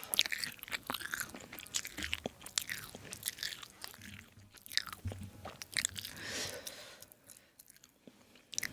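A person chewing and biting food close to the microphone: a stream of small wet clicks and crackles from the mouth, thinning out near the end.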